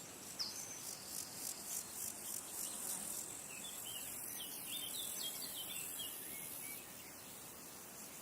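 Insects trilling high and fast in rapid pulses, going over to a steady high buzz that cuts off suddenly near the end. About halfway through, a bird gives a quick series of short chirps.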